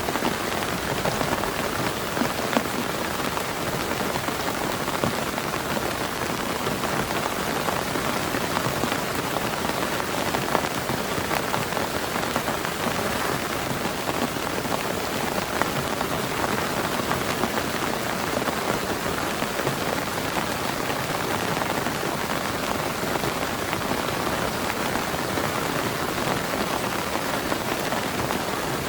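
Heavy rain falling steadily on a surface, a dense even hiss with many sharp single drop hits.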